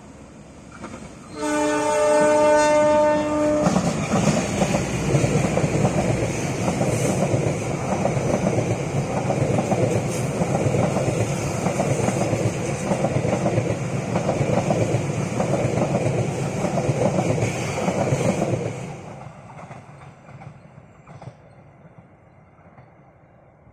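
Diesel locomotive horn sounding one blast of about two seconds, then a passenger train rolling past with its wheels clacking over the rail joints in a steady rhythm, dying away near the end.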